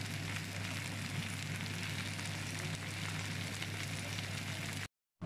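Chard, potato and onion sizzling in hot oil in a frying pan: a steady, fine crackling hiss over a low steady hum. It stops abruptly near the end.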